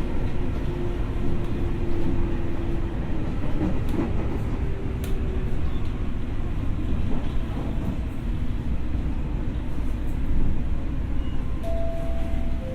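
Tokyo Metro 6000 series electric train running: a steady, dense rumble of wheels and running gear. A faint steady tone sinks slowly over the first few seconds, and a couple of higher tones come in near the end.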